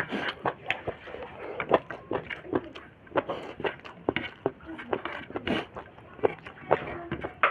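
Close-miked eating of snail and pork meat: chewing and lip-smacking, heard as a dense, irregular run of sharp mouth clicks, several a second.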